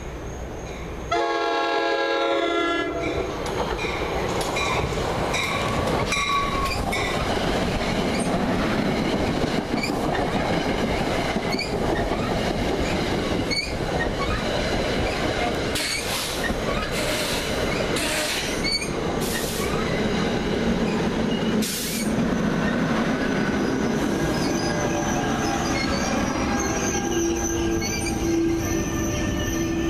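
NJ Transit commuter train sounding its horn in one long blast about a second in. Its coaches then run past close by in a steady rush of wheels on rail, clicking over the rail joints. In the last few seconds a steady squealing tone from the wheels comes in.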